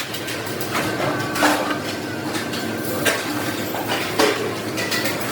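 Sheet metal being worked with hand tools: irregular metallic taps and clinks. Louder ringing strikes come about a second and a half in, around three seconds and just after four seconds.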